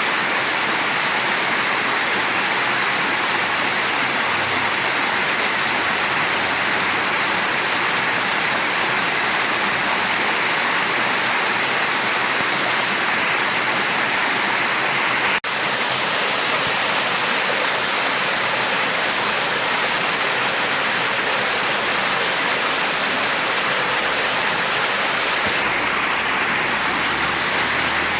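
Mountain stream rushing and splashing over rocks in a steady hiss of water, with a momentary dropout about halfway through.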